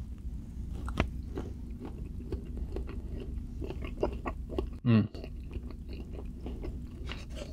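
A person biting and chewing food, with many small mouth clicks and smacks. About five seconds in comes a short hummed sound from the eater.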